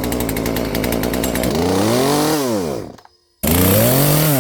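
Poulan P3416 34cc two-stroke chainsaw engine, running on a new Hipa carburetor, idles steadily, then revs up and back down. The sound cuts out abruptly about three seconds in, then returns with another rev that winds down near the end.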